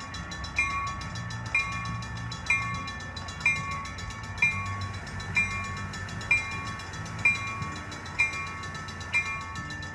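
Railroad grade-crossing warning bell ringing about once a second in a steady, even rhythm, over a low rumble.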